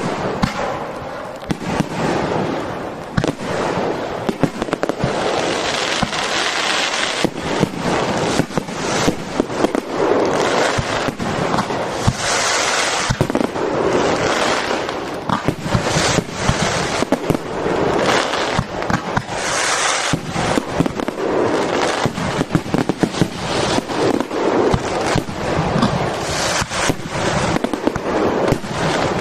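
Fireworks display going off continuously: a dense, rapid run of bangs and crackles layered over one another.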